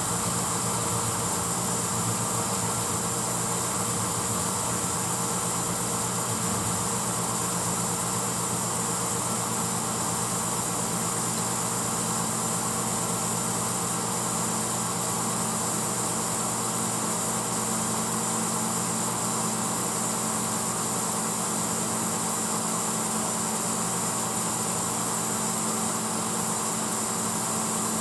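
1986 Hotpoint Potwasher dishwasher running steadily partway through its cycle: a low motor hum under an even rushing noise.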